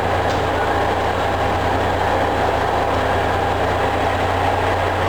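Heavy diesel truck engine idling with a steady low rumble.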